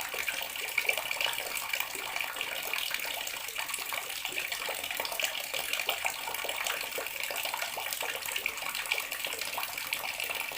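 Water tap running steadily into a bathroom sink, a continuous splashing stream with small spatters throughout.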